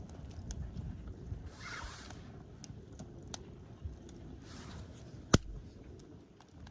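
Campfire crackling: scattered sharp pops and ticks with one loud snap about five seconds in, and two short bursts of hiss.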